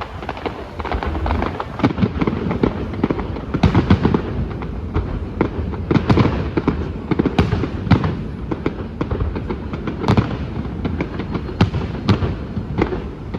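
Fireworks display going off: a continuous run of crackles and pops, with louder bangs at irregular intervals of a second or two.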